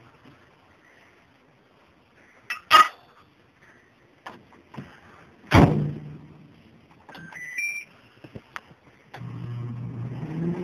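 A microwave oven being set going: a metallic clink, then the door shut with a thunk, a few short keypad beeps stepping up in pitch, and the oven starting up with a steady low hum near the end.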